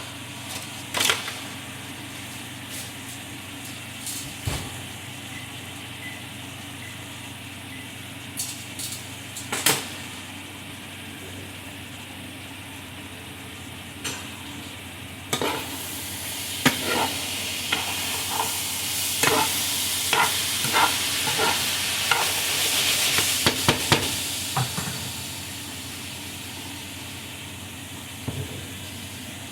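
Kitchen utensils knocking and clicking against cookware over a steady hum, then, about halfway through, a loud sizzle of food frying in a pan with rapid stirring clicks, dying away a few seconds before the end.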